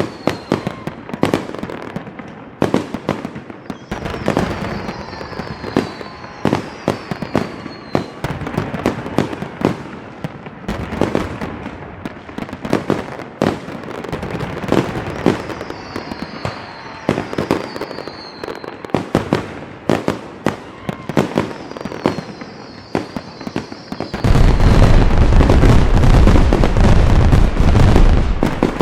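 Fireworks going off: a rapid run of sharp bangs and crackling, with several short falling whistles. About four seconds before the end it becomes a loud, continuous dense rumble of overlapping blasts.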